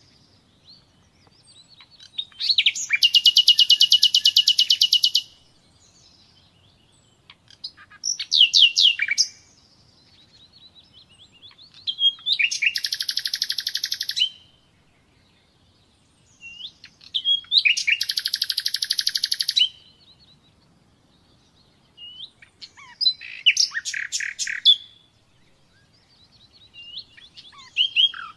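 Common nightingale singing: five phrases a few seconds apart, several of them fast trills of rapidly repeated notes.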